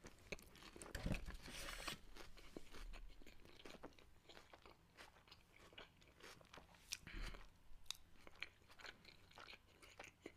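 A person chewing a mouthful of burger close to the microphone: quiet, irregular mouth clicks and soft crunches.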